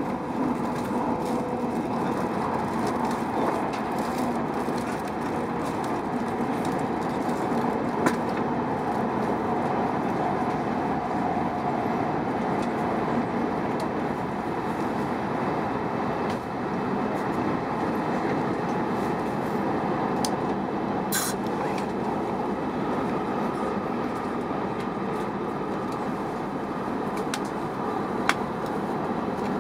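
Steady rumble and rush of a Shinkansen bullet train running, heard from inside the passenger car, with a couple of sharp clicks.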